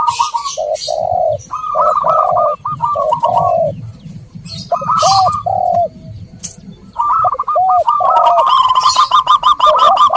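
Zebra doves and spotted doves cooing in a dove-lure recording: quick stuttering coo trills over lower, rounder coo notes. There are short pauses around the middle, and a denser run of rapid notes with higher chirps near the end.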